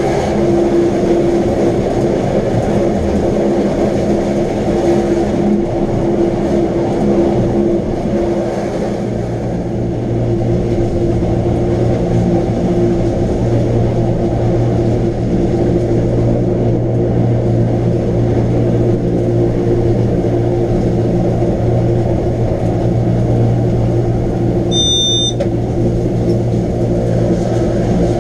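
Wengernalp Railway electric rack-railway train running, a loud steady mechanical hum with constant motor tones; a deeper hum comes in about nine seconds in. A brief high electronic beep sounds near the end.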